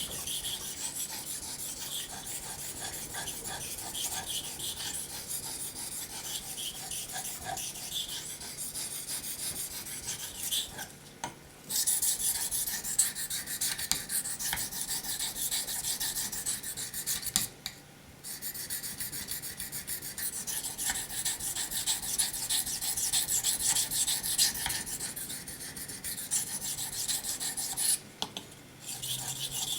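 A steel knife blade stroked back and forth on a wet 800-grit waterstone, a continuous gritty scraping of quick strokes, broken by short pauses about three times. This is the stage of honing that removes the micro-serrations left by the 400-grit stone.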